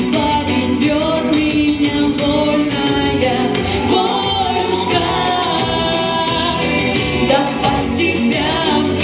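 A female vocalist singing a song in Russian over instrumental accompaniment with a steady beat.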